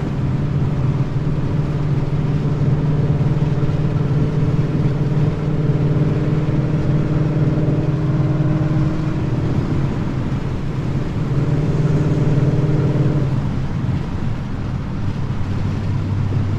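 2013 Ford Mustang GT's 5.0 V8 running through BBK long-tube headers, a high-flow X-pipe and Roush mufflers, heard from inside the car: a steady exhaust drone at an even engine speed. It drops off about nine seconds in, comes back for a couple of seconds, then settles to a lower hum near the end.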